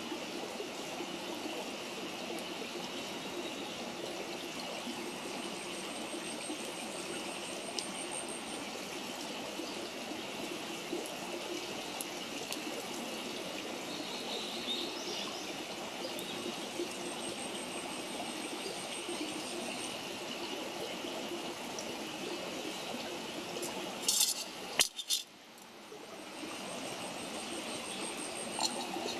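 Wood campfire burning, a steady hiss with scattered crackles and a few louder pops about 24 seconds in.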